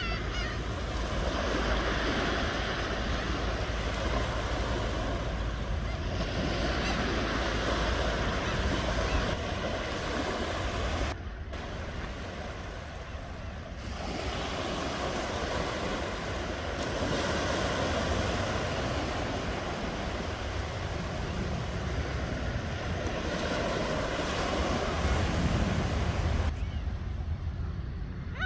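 Ocean surf: waves breaking and washing up a shore in a continuous rushing hiss over a deep rumble, swelling and easing without a break.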